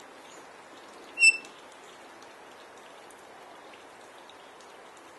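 A galah gives one short, loud, high-pitched call about a second in, over a steady background hiss with faint ticks.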